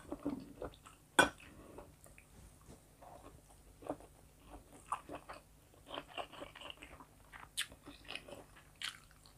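Close-miked chewing and biting as a person eats rice and chicken fillet by hand, with scattered short mouth clicks and smacks, and one sharp click about a second in.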